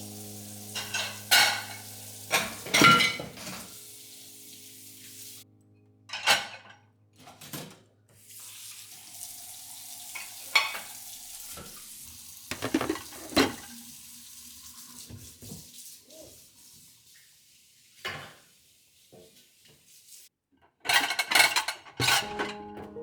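Kitchen work: dishes, pots and cutlery clinking and knocking, over a sizzling hiss of food frying in a pan. A loud cluster of clatters comes near the end.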